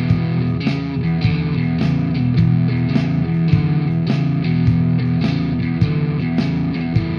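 Blues played on guitar, with a steady beat of about two strokes a second.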